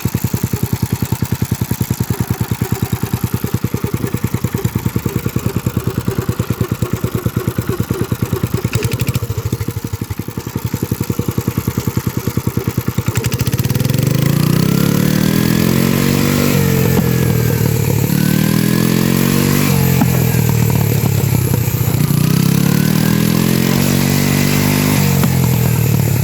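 Briggs & Stratton engine of a mini tractor running at a low, steady pulsing speed, then about halfway through revving up louder, its pitch rising and falling in several sweeps.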